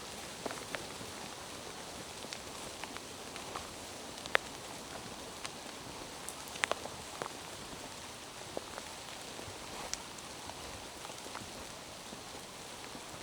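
Steady rain falling through forest, a soft hiss with scattered sharp drips and patters, a few louder drops landing about four seconds in and again just before seven seconds.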